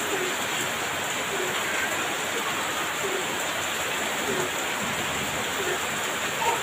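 Heavy rain pouring steadily, a dense even hiss, with a faint short call repeating about every second and a bit under it.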